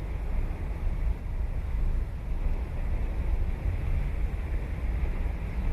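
Surf on a sandy beach, a steady wash of waves, under a heavy low rumble of wind buffeting the microphone.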